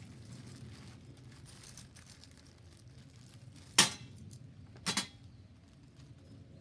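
Two sharp metallic clinks about a second apart, the first the loudest and the second a quick double knock, each ringing briefly over a faint low hum.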